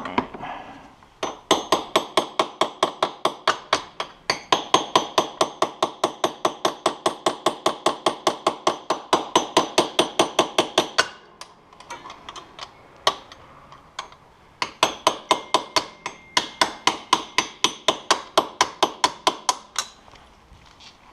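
Hammer tapping on metal during a snowmobile exhaust install: rapid, evenly spaced ringing strikes, about five a second. They come in two long runs with a short pause of a few scattered taps between.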